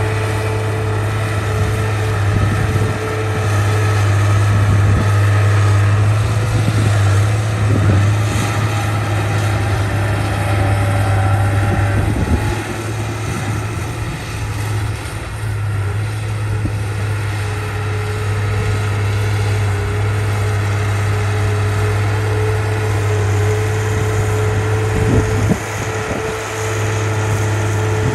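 Diesel engine of a heavy earthmoving machine running steadily, with a few knocks.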